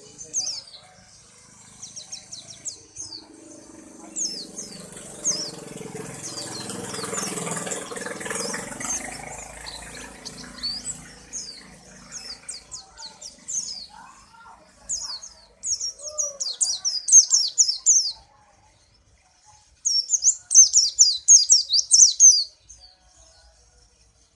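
White-eye (pleci) singing: thin high chirps, then two loud, rapid trilled song phrases about 15 and 20 seconds in, a challenge song that draws rival white-eyes to answer. A rushing noise rises under the chirps for several seconds early on.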